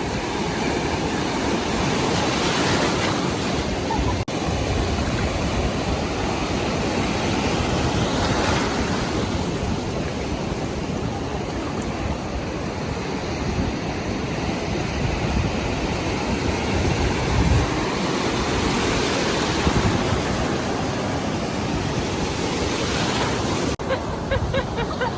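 Ocean surf breaking and washing in on a beach: a loud, steady rushing that swells up several times as waves come in.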